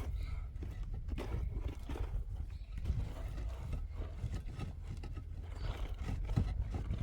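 Irregular short knocks and clatter over a steady low rumble.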